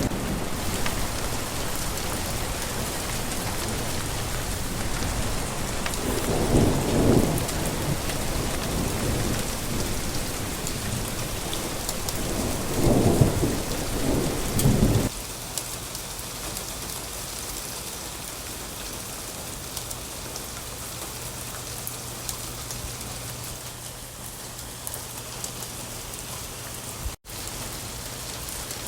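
Steady rain with thunder, two low rumbles swelling about 6 and 13 seconds in. About halfway it cuts abruptly to quieter rain on a surface with no thunder and a faint steady low hum, with a brief dropout near the end.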